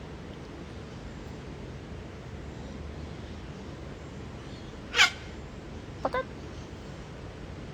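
A cockatoo gives one short, sharp call about five seconds in, falling in pitch, followed a second later by two brief quieter calls, over a steady low outdoor background.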